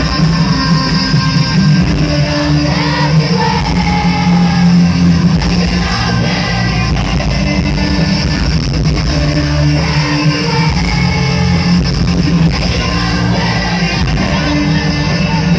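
Live rock band playing, with electric guitar, bass and drums under a singing voice.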